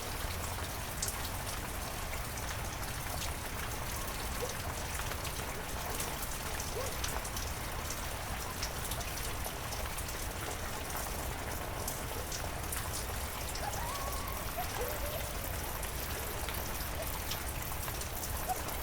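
Heavy rain falling steadily, with many individual drops ticking and pattering on surfaces.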